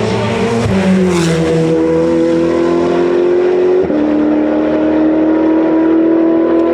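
Race car engine at full throttle, its pitch climbing through each gear, with a sharp drop at each of two upshifts: one just under a second in and one about four seconds in.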